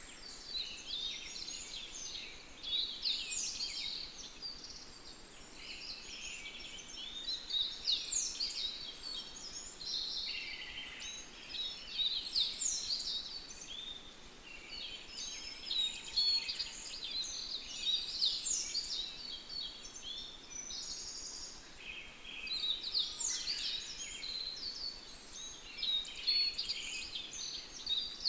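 Songbirds singing: several overlapping high chirps and trills, continuing without a break.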